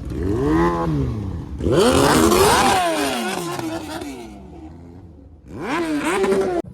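Car engines revving: three revs, each rising and then falling in pitch, the second one the loudest with a harsh exhaust rasp.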